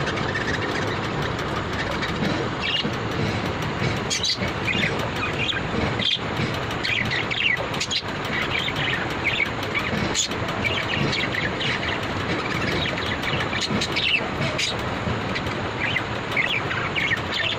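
Many short, high bird chirps, scattered all through, over a steady background noise.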